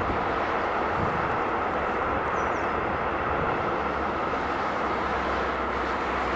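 Container freight train rolling past, its loaded flat wagons giving a steady, unbroken rush of wheel-on-rail noise.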